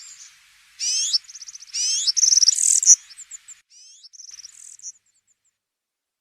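European serin singing its fast, high-pitched jingling song: rapid trills broken by rising sweeping notes, in bursts that stop about five seconds in.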